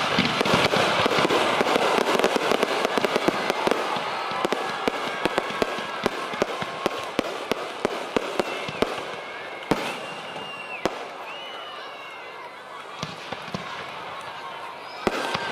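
Aerial fireworks going off: a dense run of crackling bangs that thins out after a few seconds to scattered single cracks, some a second or more apart.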